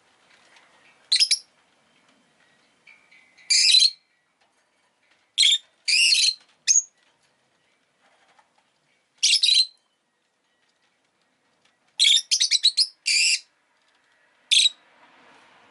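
Rosy-faced lovebird calling: sharp, high-pitched chirps every second or two, single or in quick runs of several.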